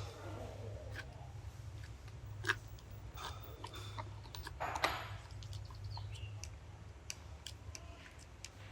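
Scattered light clicks and taps of small hand work, with a brief scraping sound about five seconds in, over a steady low hum.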